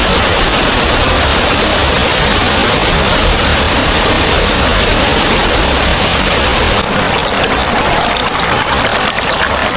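Loud, steady rush of water falling at a small waterfall, with a deep rumble underneath. About seven seconds in the rumble drops away and the rush turns lighter and more spattering.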